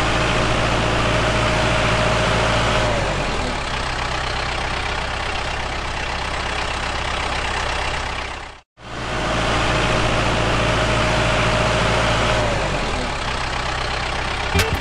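An engine running steadily at idle, with a low hum and a faint whine that sags slightly after about three seconds. It cuts out for a moment partway through, and the same stretch plays again.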